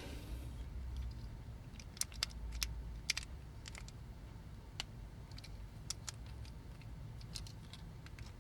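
Scattered faint clicks and taps of a small hand tool working against the plastic and metal parts of a vintage toy robot, trying to free a piece that is stuck fast. The clicks come a few at a time, busiest in the first few seconds.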